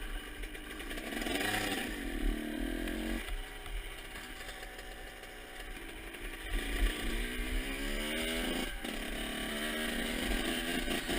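Motocross bike engine running under a rider, its revs rising and falling: it eases off to a lower, quieter run in the middle and climbs through the revs again in the second half, with a single sharp knock about nine seconds in.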